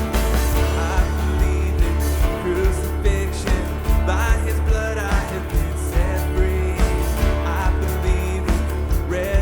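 Live worship band playing a song: drums, bass, guitar and piano, with a voice singing over them.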